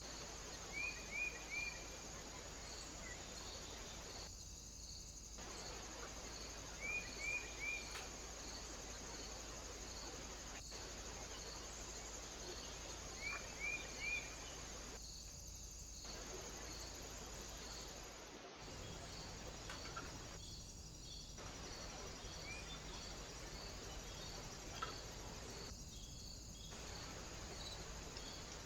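An insect chirping at a steady rate over a faint hiss, with a small bird giving quick runs of three short high notes three times in the first half, and a few fainter single notes later.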